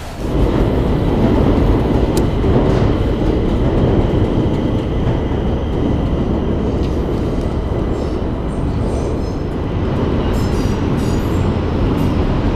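A train running past on a nearby rail bridge: a loud, steady rumble that comes in suddenly at the start and holds without letting up.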